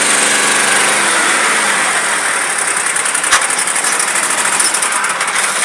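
A vehicle engine running steadily. Its low, even hum fades about a second and a half in, leaving a rushing hiss, with one sharp click about three seconds in.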